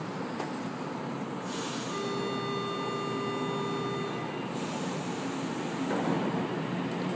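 São Paulo Metro Line 3 train running through the station with steady rail noise, and a steady high-pitched tone sounding for about two seconds in the middle.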